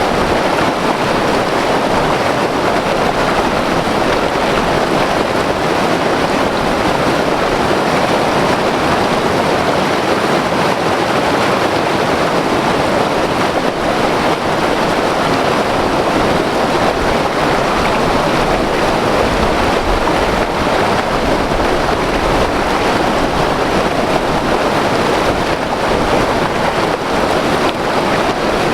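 White water river rushing over rocks: a loud, steady roar of churning water that holds an even level throughout.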